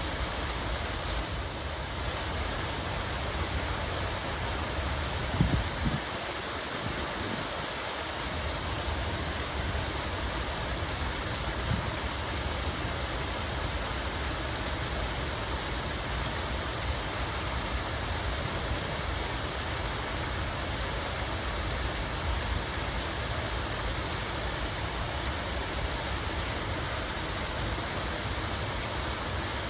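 Steady rush of running, splashing water, like a small cascade or fountain, an even hiss with no rhythm. A couple of brief low thumps come about five to six seconds in.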